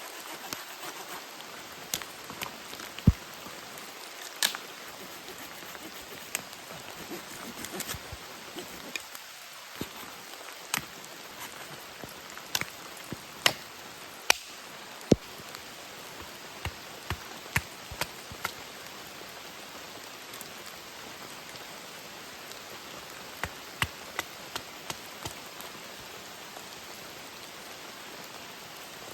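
Steady rain falling, an even hiss, with irregular sharp taps and clicks of heavy drops landing close by.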